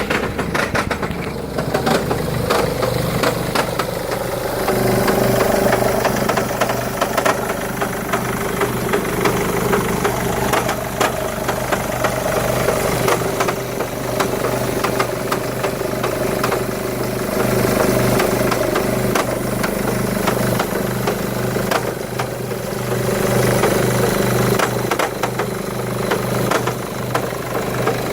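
2011 Mercedes-Benz E200 (W212) engine idling with an erratic metallic rattling over its steady running note. The owner has not yet traced the rattle; it is loudest in Park or Neutral, and suspects include the timing chain, flywheel, mounts and injectors.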